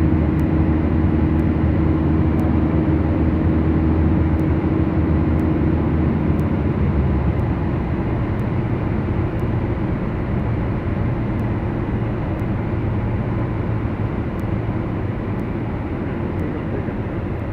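The twin four-cylinder Lycoming engines of a Beechcraft Duchess droning steadily as heard from the aircraft. About six seconds in, the steady engine tones fade and the sound eases a little.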